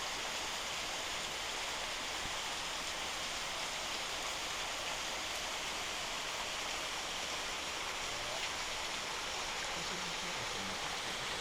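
Nanamagari Falls, a mountain waterfall partly iced over but still flowing, with a steady, even rush of falling water.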